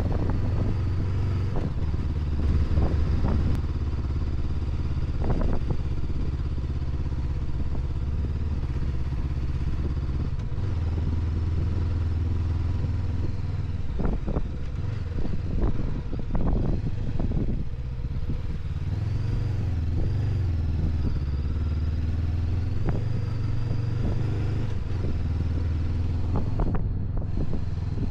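Honda NX500's parallel-twin engine running steadily under way, heard from the rider's helmet, its pitch wavering briefly past the middle. Short clattering bursts break in now and then.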